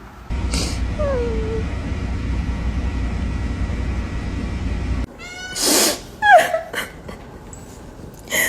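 Domestic cat meowing: one short falling meow over a steady low background hum, then, after a sudden change of scene, a few louder yowling meows and a loud burst near the end.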